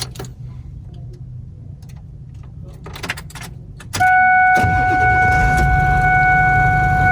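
Keys jangling and clicking into the ignition, then about four seconds in the Ford F-350's 7.3 L Power Stroke turbodiesel V8 starts and settles into a steady idle, with a steady high-pitched whine alongside it.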